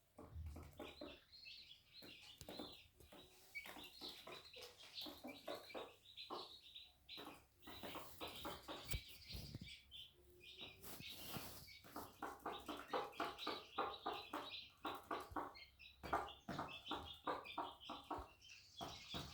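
Day-old chicks peeping: dense runs of short, high chirps, many a second, continuing throughout.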